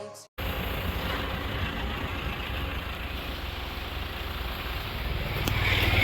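Jeep Compass SUV running, a steady low engine rumble with road noise, starting after a brief silence and growing louder near the end.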